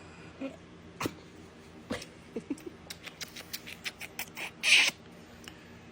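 A small pet animal making a few short, falling squeaks among scattered clicks and taps, with a brief loud rush of noise near the end. A steady low hum runs underneath.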